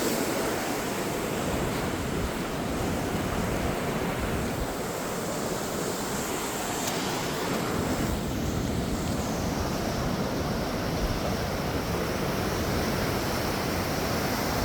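Rough ocean surf breaking and washing onto a beach, a steady roar of waves, with some wind on the microphone.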